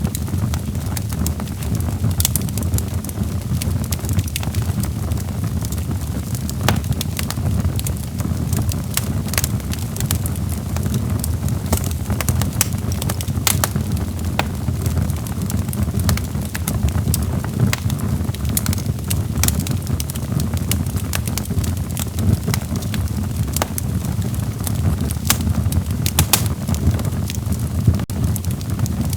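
Wood fire in a fireplace burning steadily: a low rumble of flames with frequent sharp, irregular crackles and pops from the burning logs.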